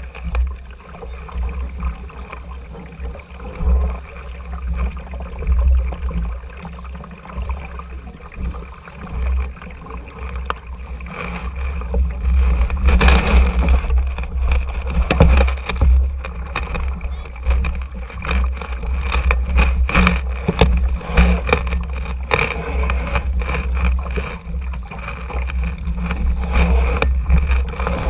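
Wind buffeting the microphone and water splashing and gurgling against the hull of a small sailing dinghy under way. It grows louder and choppier about twelve seconds in.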